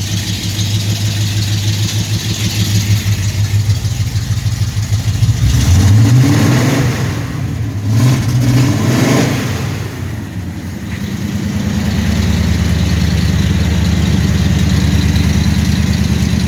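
1974 Suburban engine idling, revved twice about halfway through, its pitch climbing and dropping back each time, then settling into a steady idle.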